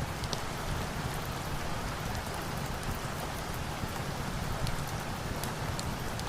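Steady rain falling, with a few faint, sharp high ticks scattered through it.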